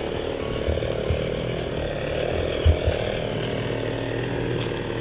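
Petrol chainsaw running steadily while cutting overgrown bushes, with a few dull low thumps, the loudest just past the middle.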